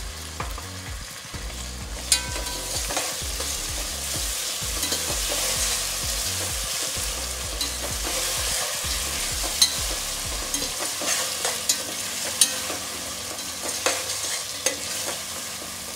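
Chopped tomatoes sizzling in hot oil with onions in a stainless steel pot, stirred with a perforated steel spoon that scrapes and knocks against the pot, the sharpest knocks about two, nine and twelve seconds in.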